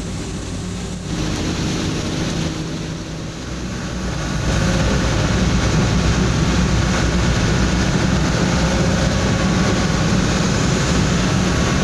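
Truck driving at speed, heard from inside the cab: a steady low engine drone under a wash of road and heavy-rain noise, growing louder about four seconds in.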